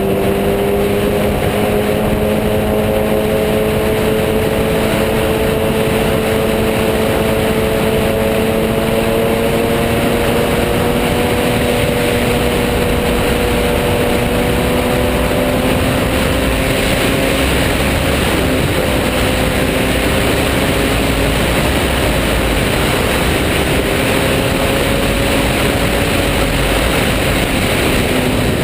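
Sport bike engine running at steady cruising revs while riding, its pitch creeping slowly upward over the first half and then holding, under heavy wind rush.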